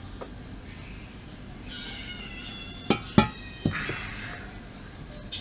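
Small plastic model-kit parts being handled and fitted: two sharp plastic clicks a little under three seconds in, the loudest sounds, and a smaller one just after. Just before them comes a high, squeaky pitched sound about a second long.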